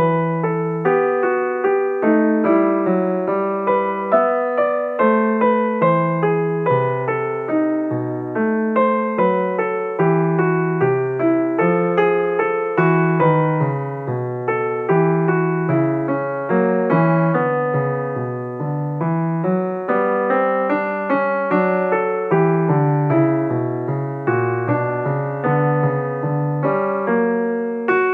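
Background piano music: a steady run of notes played with an even pulse.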